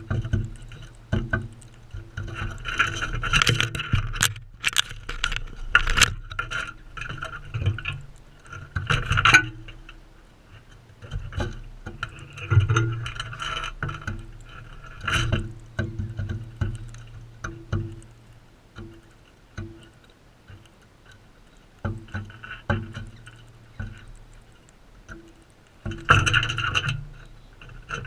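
Parrots feeding right at a GoPro, their beaks knocking, clicking and scraping on the feeder and camera housing in irregular clusters, with sharp clicks in the first few seconds.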